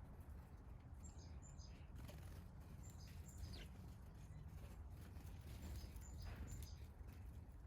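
Backyard songbirds chirping faintly, in three short clusters of quick high notes, over a steady low background rumble.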